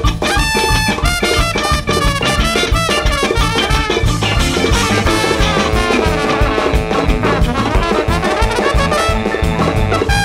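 Live jazz big band playing loudly: a horn section of saxophones and trumpet carrying melodic lines over a driving, fast drum rhythm.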